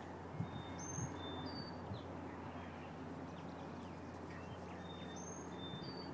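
A songbird singing: a short phrase of high, clear whistled notes about a second in, repeated near the end, over a steady low hum. A few soft knocks come in the first two seconds.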